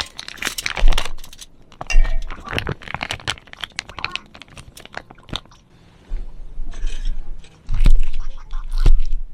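Irregular clicks, clinks and crunching of tableware and food being handled at a meal. A low rumble joins in for the last three seconds.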